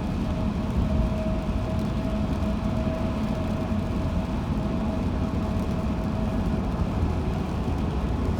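Steady road noise heard from inside a moving car: a low rumble from the tyres and engine, with a thin steady whine running under it.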